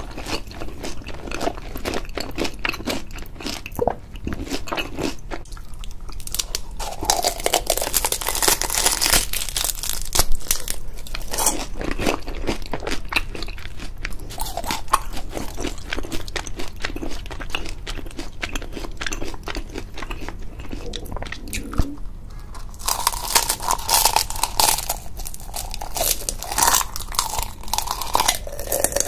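Close-miked crunching and chewing of crispy deep-fried daechang (beef large intestine), a rapid run of crisp crackles with each bite and chew, in heavier spells a few times.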